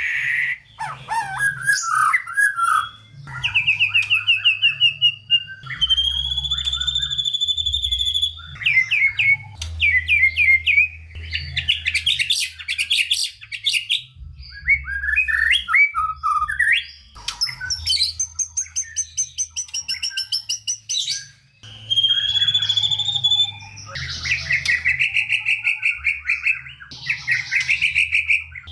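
White-rumped shama (murai batu) singing a long, varied song full of mimicked phrases. Clear whistles and sliding notes alternate with fast runs of repeated notes and rapid chattering, with short pauses between phrases.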